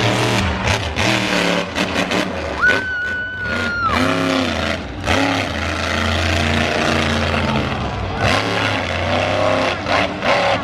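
Monster truck engines running and revving, with a steady high tone lasting a little over a second about three seconds in.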